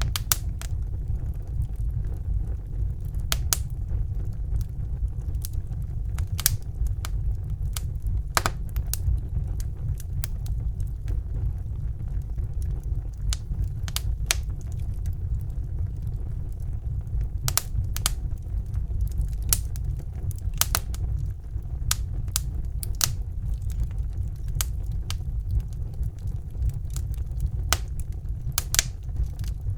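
Wood fire burning in a fireplace: a steady low rumble of flames with sharp crackles and pops coming irregularly, a few to several every second.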